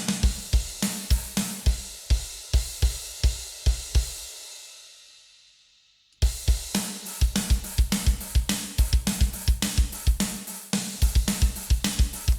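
A sampled drum kit plays a fast metal beat: kick drum, snare and a short, gated hi-hat. It stops about four seconds in and rings out, then starts again about six seconds in.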